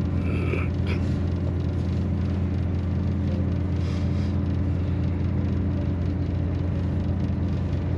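An engine idling with a steady, unchanging low hum.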